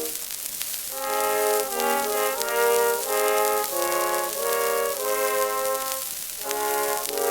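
Early 1900s acoustic recording of a brass ensemble played back from a shellac record: held chords in short phrases, with a pause just before a new phrase near the end. Surface crackle and hiss run beneath the music.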